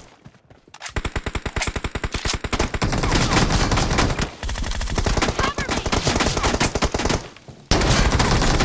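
Video-game automatic gunfire: rapid shots starting about a second in and running in dense, overlapping bursts, with a short break near the end before another loud burst.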